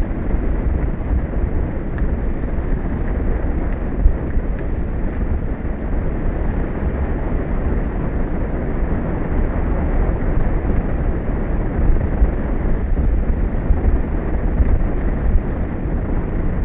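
Steady wind buffeting an outdoor microphone on an offshore platform, a constant low rumble with no distinct events.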